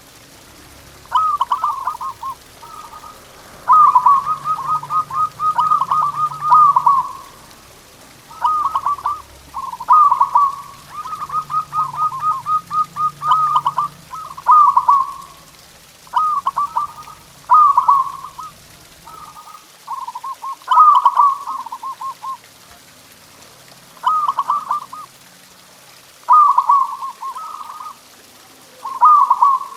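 Zebra doves (perkutut) cooing: repeated phrases of rapid, staccato coo notes, each phrase a second or two long, separated by short pauses.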